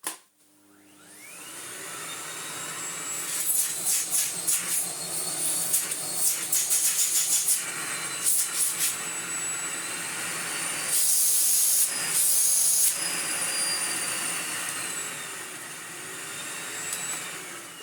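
Miele Blizzard CX1 bagless vacuum cleaner switched on and its motor spinning up with a rising whine, then running steadily on medium power. Several louder bursts of rushing air come partway through, the loudest a little past the middle. The machine runs smoothly.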